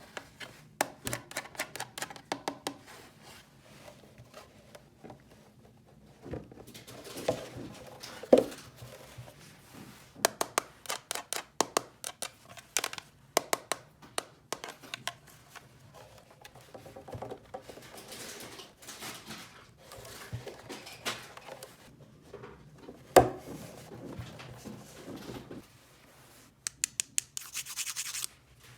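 Small toy pieces being handled and set down: clusters of quick clicks and taps with scraping and rubbing between them, and two louder knocks, one about a third of the way in and one past three-quarters. A brief rustling hiss comes near the end.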